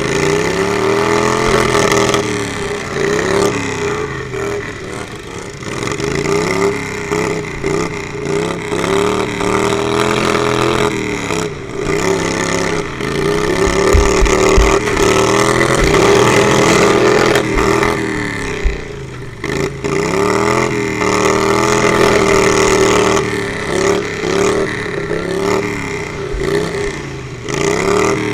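Lawnmower engines revving up and down over and over, their pitch rising and falling every couple of seconds, with a few low thumps around the middle.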